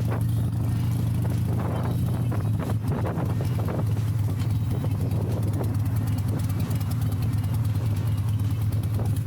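Harley-Davidson Iron 883's air-cooled V-twin running through Rinehart slip-on mufflers, a steady low engine note holding one pitch without revving.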